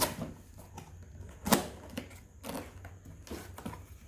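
A cardboard box being opened and its packaging handled: a series of clicks and rustles, with a sharp knock about one and a half seconds in.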